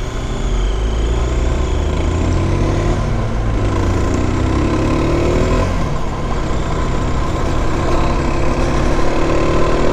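Mondial SMX 125i supermoto's single-cylinder 125 cc engine pulling under acceleration, its pitch rising three times and dropping back at gear changes about three and six seconds in.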